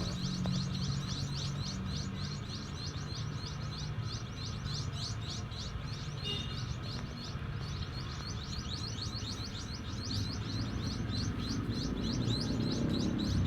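Small birds chirping: a steady, rapid run of short, high chirps, several a second, with a low hum underneath.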